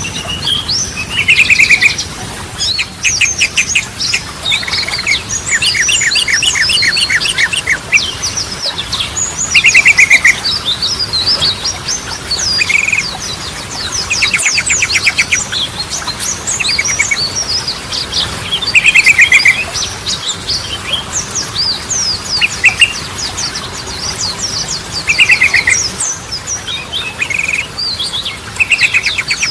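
Yellow-vented bulbuls singing: a busy stream of quick chattering notes, broken every few seconds by short, fast rattling trills.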